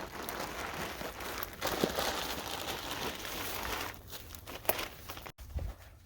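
Crinkling and rustling of something being handled, dense for about four seconds and then quieter, with a sudden break near the end.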